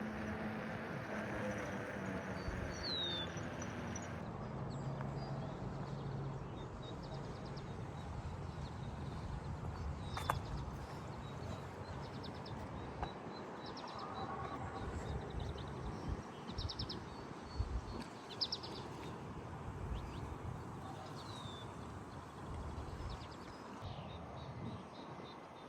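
Birds chirping over a steady rush of wind and rolling noise on a bicycle ride, in short down-slurred calls and quick trills that repeat through the middle stretch. A low hum fades out after the first few seconds, and a single sharp click comes about ten seconds in.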